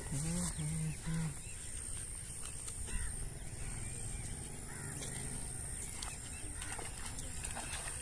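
Birds calling at intervals, short curved calls every second or two, over a steady high-pitched drone.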